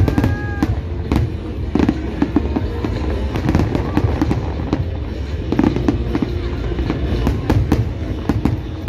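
Large aerial fireworks display: irregular bangs and crackles of bursting shells, several a second, over a continuous low rumble.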